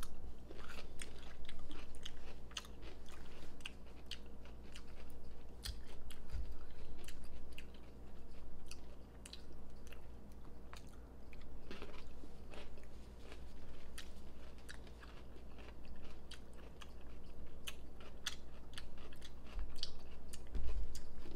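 Two people biting into and chewing big, juicy fruit-punch-flavoured pickles: wet crunching and mouth clicks at an irregular pace.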